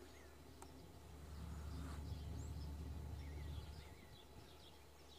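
Faint, scattered outdoor bird chirps over a low steady rumble.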